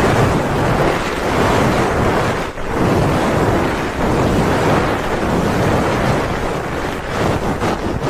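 Hands rubbing over the ears of a binaural ASMR microphone in the 'helicopter' ear-rubbing technique: a loud rushing whoosh on the mic that swells and fades about once a second.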